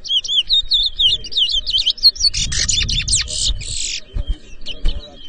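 Caged towa-towa seed finch singing: a run of quick whistled chirps sliding up and down in pitch, then a denser, rapid song phrase about two seconds in, thinning to scattered notes near the end. These are the song phrases tallied in a bird-song race.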